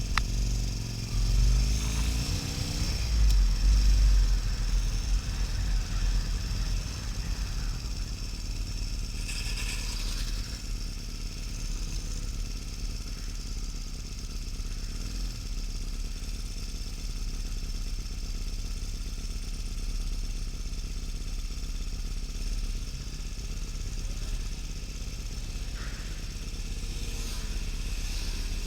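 Harley-Davidson XL1200N Sportster's air-cooled V-twin engine pulling up through the revs for the first few seconds, then running steadily at cruise, with wind rush over the helmet camera.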